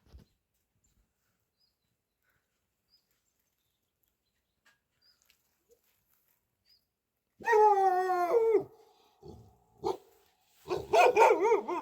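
Goat bleating twice, each a long quavering call: the first about seven and a half seconds in, the second near the end.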